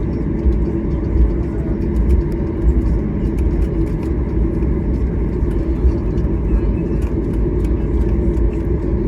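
Steady low rumble of cabin noise inside a Boeing 737 MAX 8 on the ground after landing, with faint scattered ticks.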